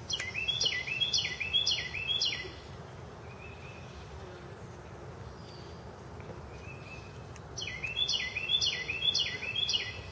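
A songbird singing two bursts of a quick phrase repeated about five times, one at the start and another near the end, over a steady low background hum.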